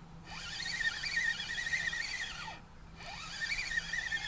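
A bird singing in long warbling phrases of high, wavering notes with downward slides, with a short pause a little past halfway.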